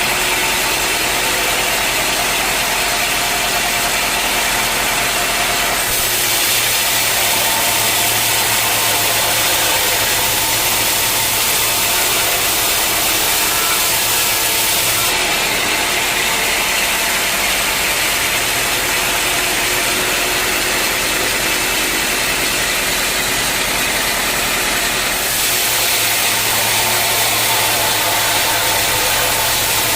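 Sawmill machinery running steadily, a loud mechanical hum and whine with the sound changing abruptly three times.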